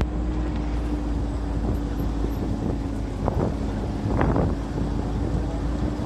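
Steady low rumble with wind buffeting the microphone and a constant hum, like a vehicle running. A brief voice-like sound about four seconds in.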